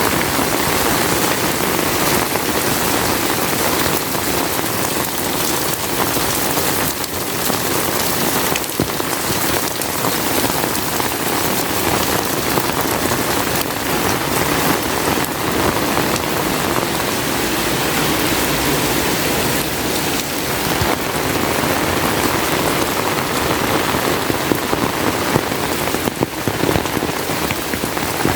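Heavy rain falling steadily, a dense even patter with a few sharper drop impacts near the end.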